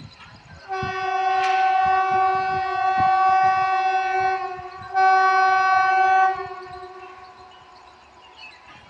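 Indian Railways locomotive horn sounding one long, steady blast of about four seconds, then a second, shorter blast after a brief break.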